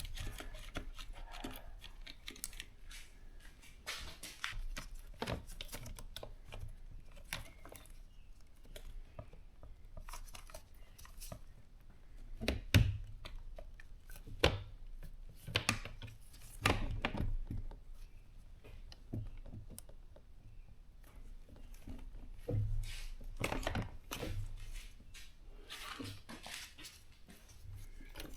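Irregular clicks, taps and knocks of hands working parts of a dishwasher during reassembly, with a sharper knock about halfway through.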